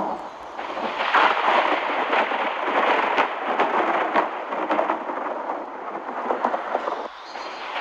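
Heavy storm rain pelting down: a dense, loud hiss full of sharp individual hits, easing briefly near the end.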